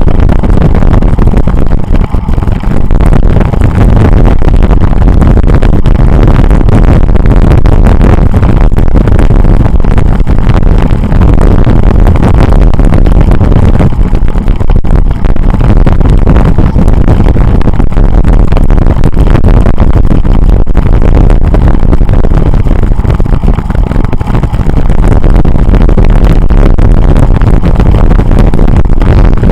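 Wind buffeting hard on the microphone of a camera carried on a bicycle ride, a loud, steady, low rumble with brief lulls about two seconds in and near twenty-four seconds.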